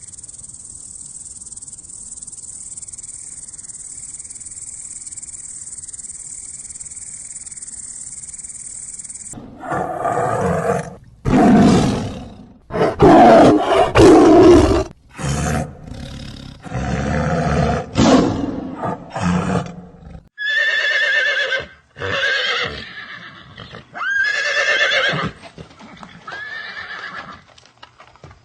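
A series of animal calls. First there is a steady high hiss for about nine seconds. Then come loud, rough calls lasting to about 20 seconds, followed by six or seven shorter pitched calls that each rise and fall.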